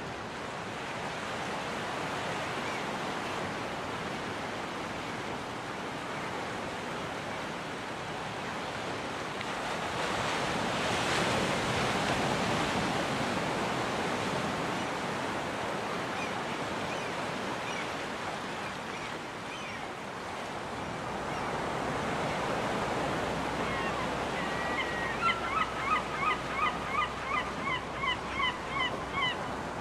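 Ocean surf washing steadily onto a beach, one wave breaking louder about eleven seconds in. Near the end a gull calls a fast run of about a dozen short, harsh notes, two or three a second.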